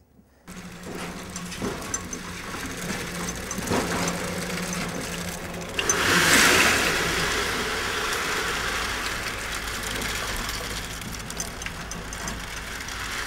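Concrete mixer's engine running steadily, joined about six seconds in by a louder rushing hiss of wet concrete pouring.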